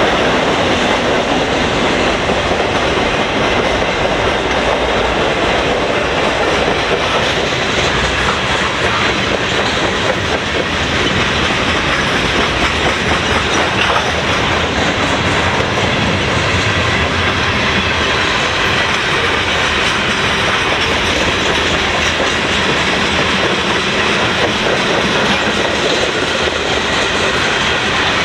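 Long freight train's cars rolling past at about 25 mph: a steady wheel-on-rail rumble with the clickety-clack of wheels over the rail joints.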